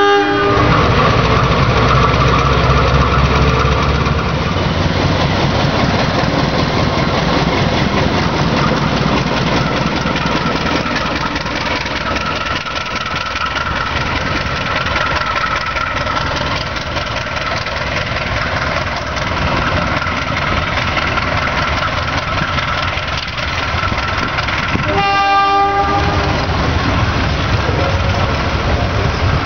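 Diesel-hauled passenger train rolling past close by: a steady rumble and rattle of the coaches on the rails. A short horn blast sounds near the end.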